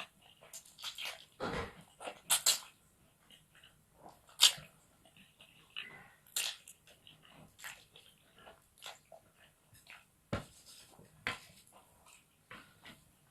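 Close-miked chewing of fried rice stick noodles: irregular wet mouth smacks and clicks with pauses between them, the loudest a little over four seconds in.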